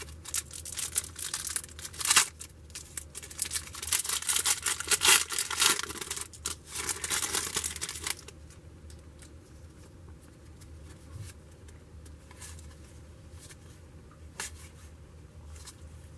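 A trading card pack wrapper being torn open and crinkled for about eight seconds. Then quieter handling of the cards, with a few faint taps.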